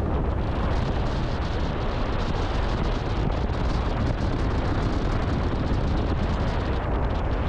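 Wind and road noise from a vehicle being driven, rumbling and crackling steadily against a GoPro's built-in microphone.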